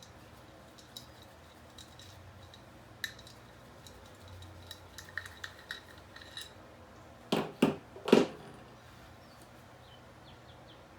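Metal engine parts and hand tools clinking and knocking against each other, with a run of small light clicks near the middle and three sharp, louder knocks in quick succession about two-thirds of the way through.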